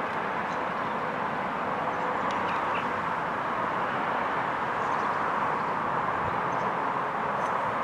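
A train running past, giving a steady hiss of wheels on rail.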